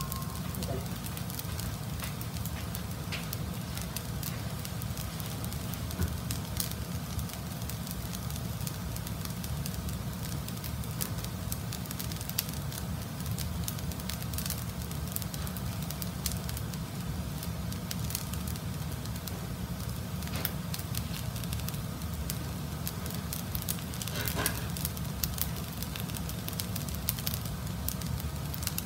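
Fried rice with peas, carrots and chicken sizzling in a frying pan on a gas stove, left unstirred: a steady crackle of many small pops and ticks over a low, even rumble.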